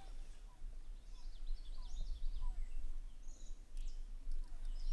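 Outdoor ambience: birds chirping in short quick notes, clustered about a second and a half in and again near the end, over a steady low rumble.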